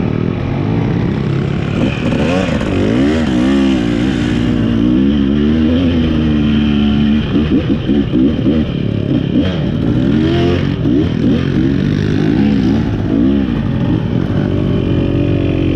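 2023 KTM 300 XC two-stroke dirt bike engine running under riding, the revs rising and falling repeatedly as the throttle is worked.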